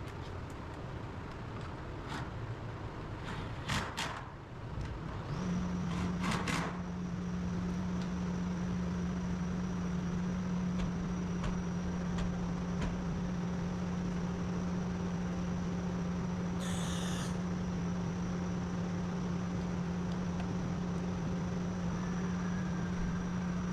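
A machine switches on about five seconds in and runs steadily with a low hum and a thin high whine, after a few knocks and clicks. A short hiss comes about seventeen seconds in.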